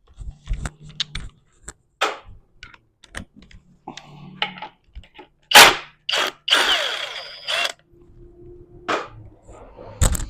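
Metal clinks and knocks of a socket and tools on a manual transmission case, with one sharp, loud clack a little past halfway. Right after it a power tool runs for about a second, loosening a bolt.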